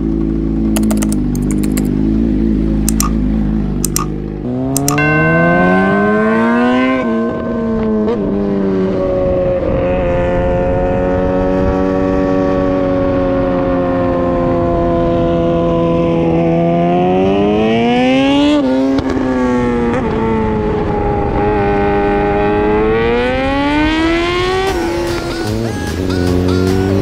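Suzuki GSX-R750 inline-four running through a catalytic-converter delete and an M4 slip-on exhaust. It runs steadily at first, then from about five seconds in accelerates hard, its pitch climbing, dropping sharply at each gear change and climbing again several times.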